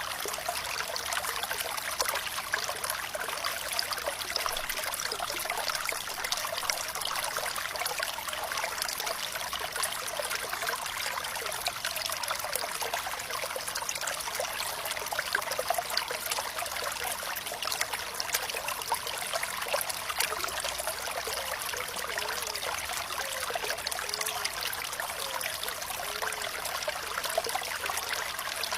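Water trickling and splashing steadily in a small stream, a constant bright babble with no deep rumble.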